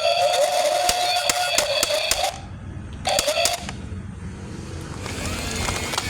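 Toy excavator's small electric motor and gearbox whining, with clicking, for about two seconds. It stops, then runs again briefly around the middle.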